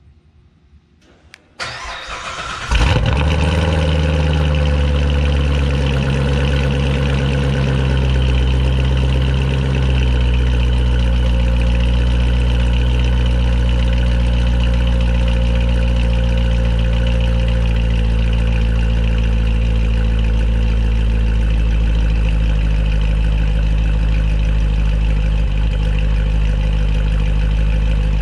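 Supercharged C7 Corvette's 6.2 L LT1 V8, fitted with a Corsa X-pipe, cold-started: the starter cranks briefly, then the engine catches about three seconds in with a loud flare. It settles into a high cold fast idle that drops slowly for several seconds, then holds steady.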